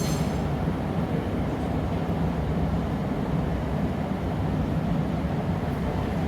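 Steady low roar of a glassblowing studio's gas-fired furnaces and blowers. A brief ringing clink sounds at the very start.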